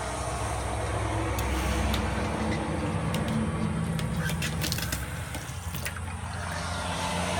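Road traffic going by: a steady low rumble of passing vehicles, with a few light clicks and knocks about the middle.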